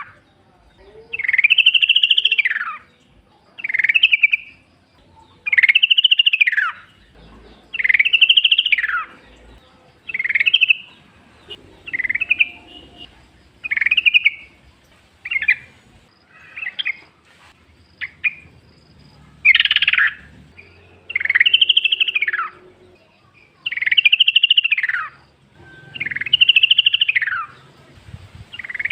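Yellow-vented bulbul singing: a loud phrase that rises and then falls in pitch, repeated about every two seconds, with shorter, broken phrases for several seconds in the middle.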